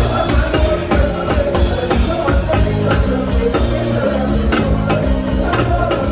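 Live band playing during a sound check: drum kit keeping a steady beat under stepping bass notes, with sustained higher tones over them.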